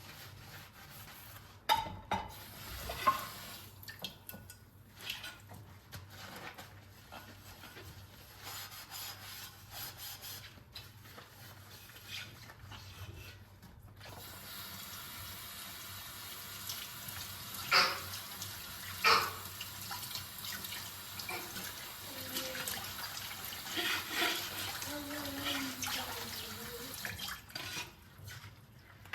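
Kitchen tap running into a sink from about halfway through, with a few sharp clinks of dishes. The first half holds scattered knocks and clatters.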